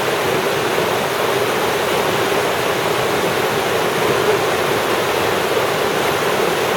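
Rushing river water and waterfall, a loud, steady roar of falling and churning water close by.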